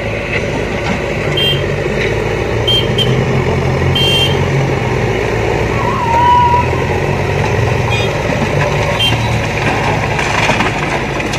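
JCB backhoe loader's diesel engine running steadily under work. Short high beeps or chirps come through a few times, unevenly spaced.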